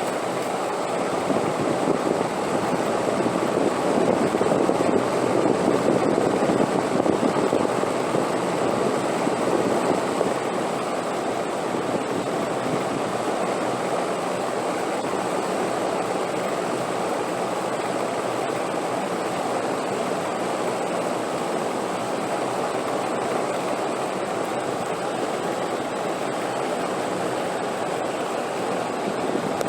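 Steady wind noise, an even rushing that swells slightly about a few seconds in and then settles.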